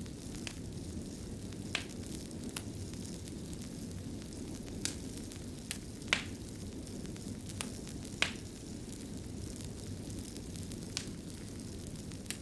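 Wood fire burning in a stone fireplace: a steady low rumble and hiss with sharp crackles and pops at irregular intervals, the loudest two a little before the middle and a little after it.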